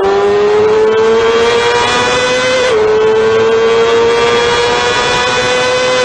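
Motorcycle burnout: the rear tyre spins against the pavement with the engine held at high revs, making a loud, steady high-pitched tone that creeps slowly upward. The pitch drops slightly and suddenly about two and a half seconds in.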